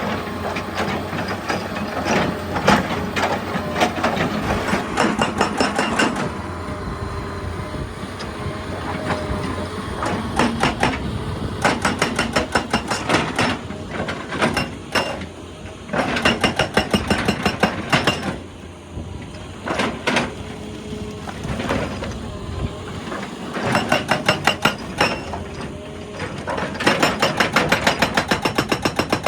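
Excavator-mounted hydraulic rock breaker hammering rock in bursts of rapid, evenly spaced blows, several a second, with short pauses between bursts and the machine's diesel engine running underneath.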